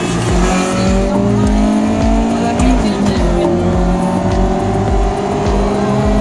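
Honda CRX engine pulling hard under acceleration, heard from inside the cabin, its note climbing steadily with a brief dip in pitch about three seconds in. Music with a steady thumping beat plays underneath.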